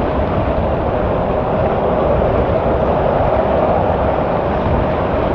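Airbus A319 jet engines running during takeoff: a loud, steady rushing noise with a droning hum.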